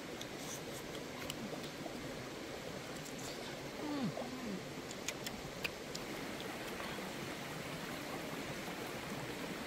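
People chewing roasted chicken with scattered short wet clicks of chewing and lip-smacking, over a steady background hiss. A short wavering hum, like an appreciative 'mm', comes about four seconds in.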